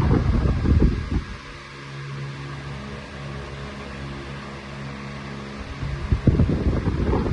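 Arge Twister 50 cm, 140 W electric fan running, its airflow rushing loudly over the microphone. About a second in the rush drops away, leaving a quieter steady motor hum. Around six seconds in the loud airflow returns.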